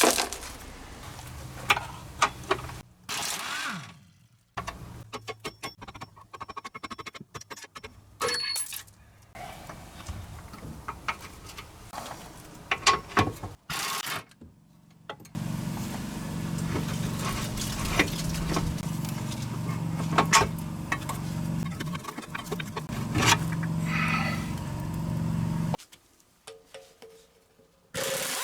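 Metal tools working on a car's rear axle and hub: scattered clinks, taps and knocks, broken up by edits. A steady low hum runs for about ten seconds in the second half.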